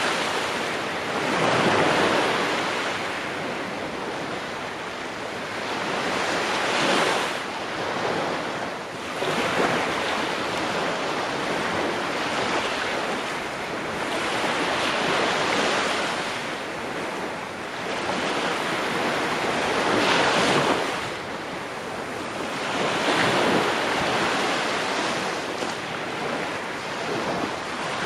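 Ocean waves breaking and washing on a shore, each surge swelling and fading every few seconds.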